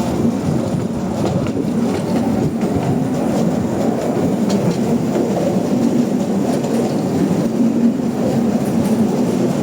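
Steady rumbling noise of a moving vehicle in motion, continuous and even throughout.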